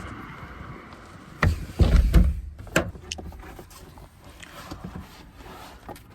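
A few heavy thumps and knocks about one and a half to two seconds in, then a sharp click, from someone moving about and settling in inside a truck bed, followed by lighter scattered knocks.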